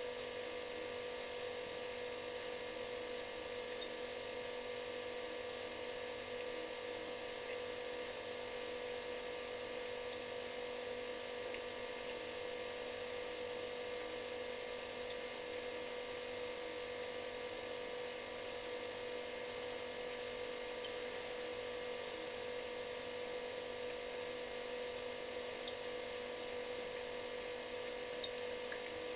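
Refrigerator running with a steady buzzing hum: one strong tone and several fainter ones over a soft hiss, with a few faint ticks.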